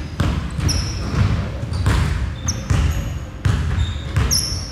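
A basketball being dribbled on a gym floor, a steady run of bounces about one and a half a second, with short high squeaks of sneakers on the court in between.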